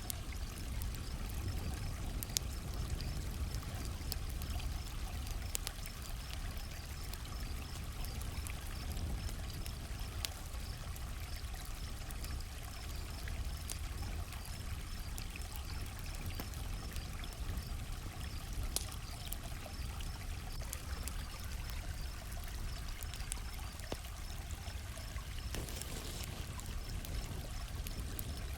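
Campfire crackling with scattered sharp pops over a steady rush of flowing creek water, and crickets chirping in an even, high-pitched rhythm.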